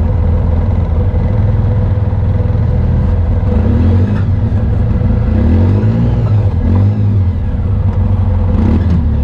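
Off-road vehicle engine running under way on a dirt trail, revving up and down several times in the middle few seconds.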